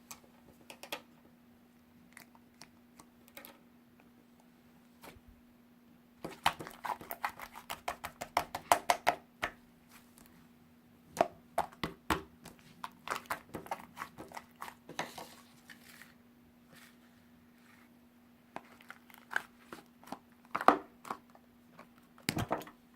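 Bursts of rustling, crinkling and quick tapping from things being handled close to the microphone, in clusters separated by quieter gaps, over a faint steady hum.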